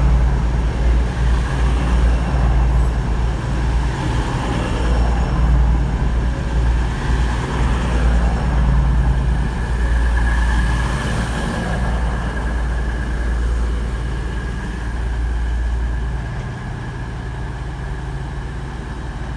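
Class 222 Meridian diesel multiple unit at the platform, its underfloor diesel engines running with a steady low rumble that eases slightly near the end.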